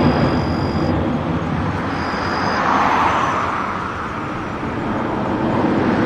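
Jet airliner taking off, engines and airflow making a steady rushing roar that swells and eases, with a faint thin high whine in places.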